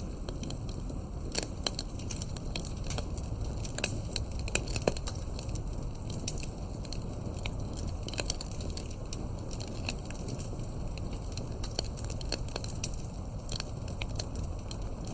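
Campfire crackling steadily over a low rumble of flame, with many sharp, irregular pops; a few louder pops stand out in the first five seconds.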